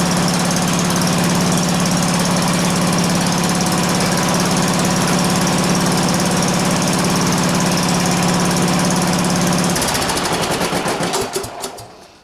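Cub Cadet LT1045 lawn tractor engine running steadily with a really loud exhaust, because the muffler has come disconnected from the exhaust pipe. Near the end the engine shuts down: its firing pulses slow and spread apart, and it coasts to a stop.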